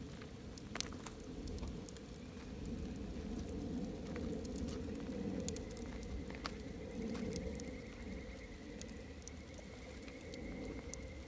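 Wood campfire burning: a low rush of flames with scattered sharp crackles and pops from the burning wood. A faint, thin, steady high tone comes in about halfway through and holds to the end.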